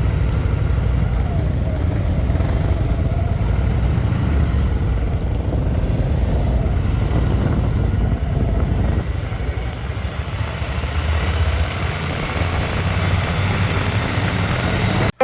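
Motorcycle engine running, with a steady low rumble that cuts off abruptly near the end.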